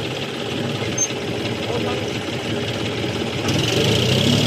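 Tractor diesel engine running steadily, growing louder about three and a half seconds in.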